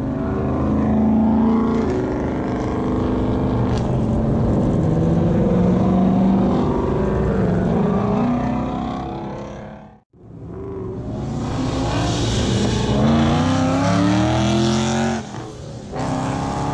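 Ford Mustang V8 engines driving past along a road, engine pitch rising and falling as they pull away. About ten seconds in the sound cuts off abruptly, and another passing Mustang follows, its engine pitch climbing as it accelerates hard.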